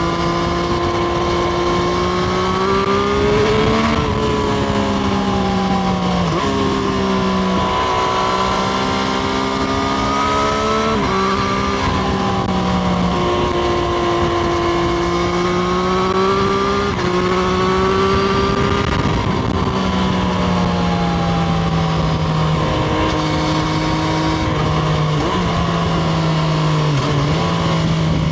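Triumph Street Triple RS 765 cc inline three-cylinder engine under way on the road, its pitch climbing and falling repeatedly with sudden drops at gear changes, over steady wind noise.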